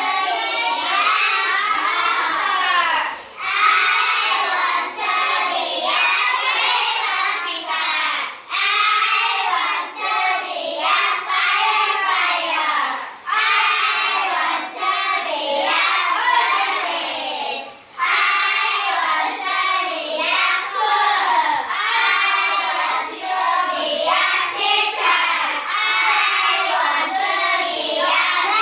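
A group of young children singing together in high voices, in phrases of a few seconds with brief pauses between them.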